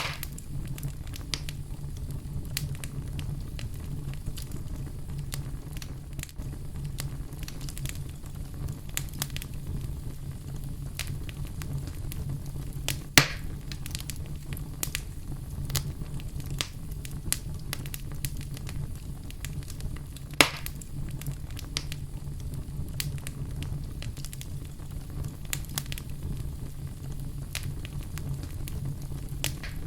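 Wood fire burning in a fireplace: a steady low rumble with scattered crackles and small pops, and two sharp, louder pops, one about 13 seconds in and one about 20 seconds in.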